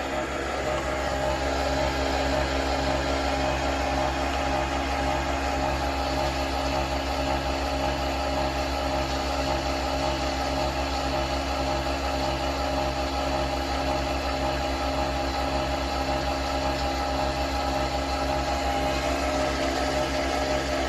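Nespresso Vertuo Next capsule coffee machine brewing: a steady mechanical hum and whir from the spinning capsule and pump, with a regular low pulsing.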